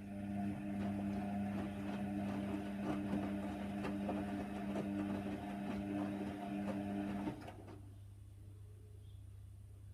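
Hoover Nextra washer dryer running: a steady motor hum with small knocks and clicks that stops abruptly about seven seconds in, leaving a low steady hum.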